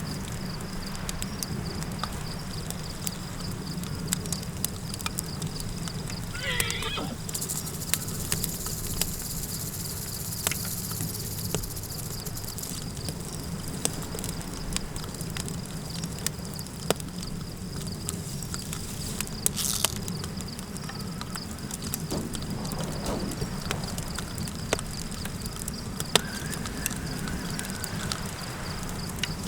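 A campfire crackling steadily over a low, even wind. A horse whinnies once, a wavering call that falls in pitch, about seven seconds in.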